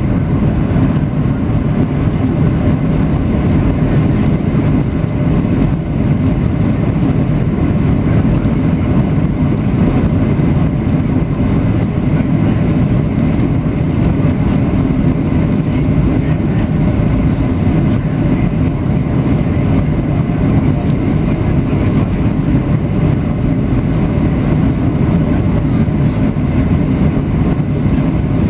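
Steady rumble of a Boeing 737-700's CFM56-7B engines and the airflow past the airframe, heard from inside the passenger cabin during the landing.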